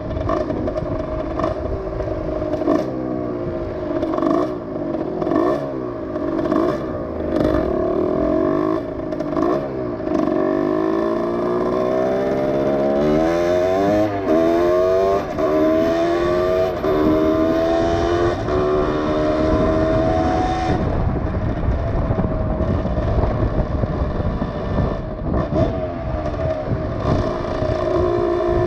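Rieju MRX motorcycle engine running while being ridden, its pitch rising again and again through the gears in the middle, then running steadier near the end, with some short clatters.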